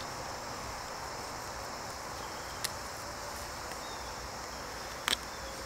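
Steady outdoor background of insects, crickets trilling in a high steady band, with two short sharp clicks, one about two and a half seconds in and one near the end.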